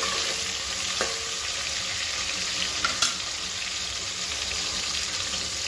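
Chopped onion and tomato frying in hot oil with mustard seeds and curry leaves in an aluminium pot: a steady sizzle. A few sharp clicks come through about one second and three seconds in.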